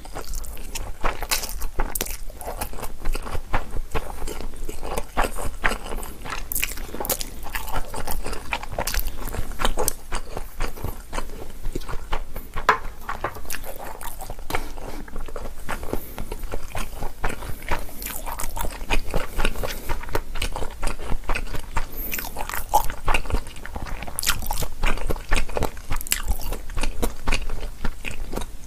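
Close-miked mouth sounds of a person chewing a mouthful of Chapagetti noodles: a dense, continuous run of small clicks and smacks.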